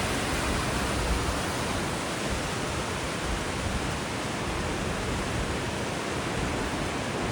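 Wind picking up ahead of a thunderstorm: a steady rushing hiss with uneven low rumbling buffets of wind on the microphone.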